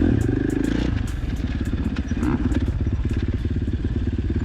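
Dirt bike engine running at low, pulsing revs while riding a rough trail, with scattered sharp clicks and clatter over it.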